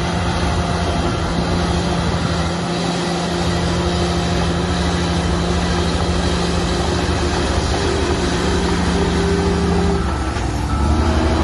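Heavy diesel engine of earthmoving machinery running steadily under load with a deep rumble and a steady hum. About ten seconds in the tone shifts and the low rumble grows louder.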